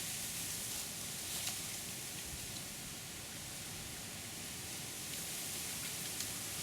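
Steady, soft outdoor background noise: an even hiss with a few faint ticks.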